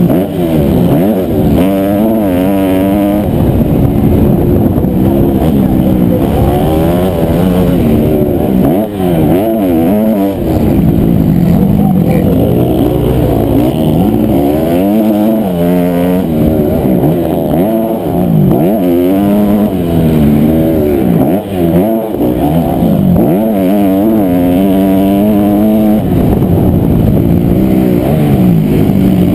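Honda CRF250R's single-cylinder four-stroke engine under racing load, loud, revving up and dropping back over and over as the bike is ridden hard around a motocross track.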